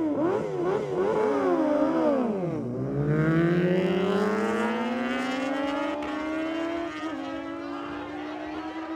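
Superbike engine revved hard in quick blips, pitch jumping up and down, then launched and accelerating away, its pitch climbing steadily through the gears and levelling off near the end.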